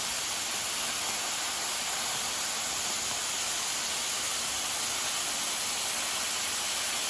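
Plasma cutter cutting through the steel of a grain box, a steady unbroken hiss of compressed air and arc.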